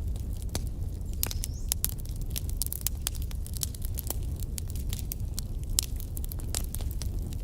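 Wood fire burning in a fireplace: a steady low rumble with irregular sharp crackles and pops of the burning logs.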